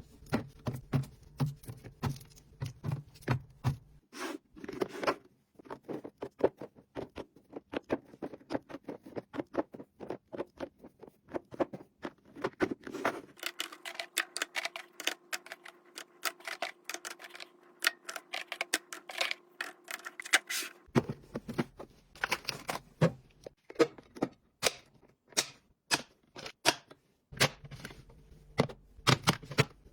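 Rapid clicks, taps and knocks of plastic food containers and packages being handled and set into a freezer, in several short edited stretches. A steady hum runs under the middle stretch.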